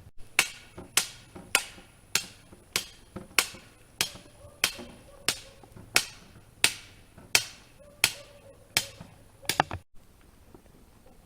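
Hammer blows, a steady series of about sixteen evenly spaced strikes at a little under two a second, stopping abruptly about ten seconds in.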